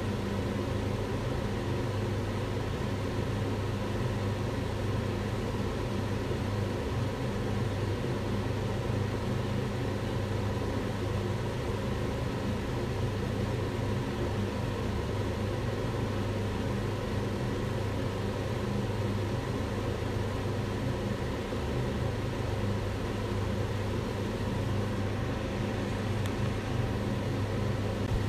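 Kitchen range hood extractor fan running steadily: a constant whooshing noise over a low hum, used as white noise for a baby.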